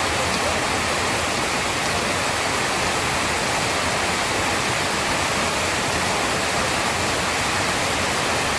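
Heavy rain pouring steadily as an even, unbroken hiss, with no thunder heard.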